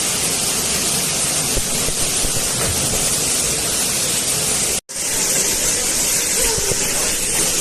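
Waterfall rushing: a steady, loud roar of falling water that cuts out for an instant about five seconds in, then resumes.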